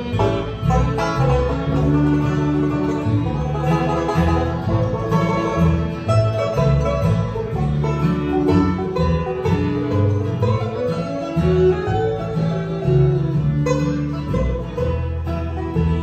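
Bluegrass band playing an instrumental passage, with quick banjo picking to the fore over guitar.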